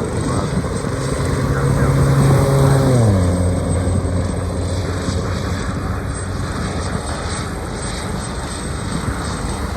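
Aircraft passing close by: its engine hum drops sharply in pitch about three seconds in as it goes past, then runs on steadily at the lower pitch over a steady rushing noise.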